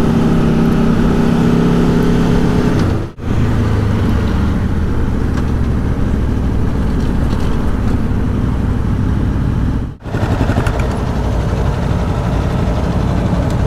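Aprilia Tuono V4 1100 motorcycle's V4 engine running at steady revs on the move, then mostly wind and road noise with the engine underneath. The sound drops out very briefly twice.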